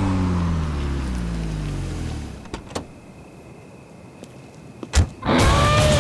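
Car engine with its note sliding down in pitch, dying away about two seconds in; a few clicks and a sharp thump follow, and music starts near the end.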